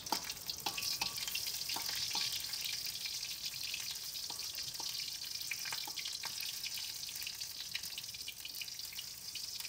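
Sliced lemongrass frying in hot oil in a wok: a steady sizzle with scattered crackles and pops.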